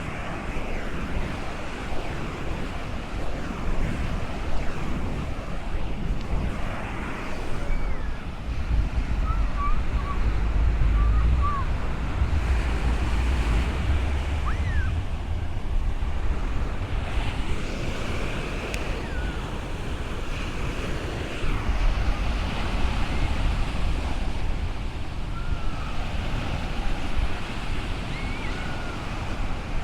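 Ocean surf breaking and washing along the shore, a steady rush of noise, with wind buffeting the microphone in a heavy low rumble for a few seconds near the middle.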